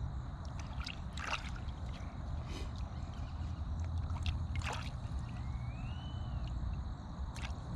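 Water sloshing and splashing a few times in a horse's automatic waterer, over a steady low rumble.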